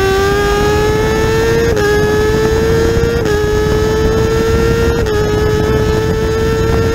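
Kawasaki ZX-10R's inline-four engine at full throttle, pulling hard through the gears. The revs climb steadily, with three quick upshifts at about two, three and five seconds in, each a brief dip in pitch before the note climbs again. A loud rushing hiss runs underneath.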